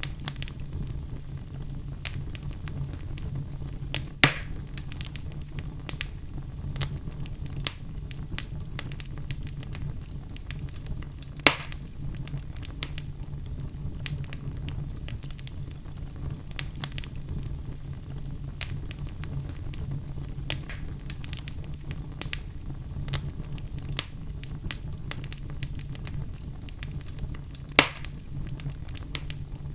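Wood logs burning in a fireplace: frequent small crackles and snaps over a steady low rumble of the flames, with three louder pops, about four seconds in, near the middle, and near the end.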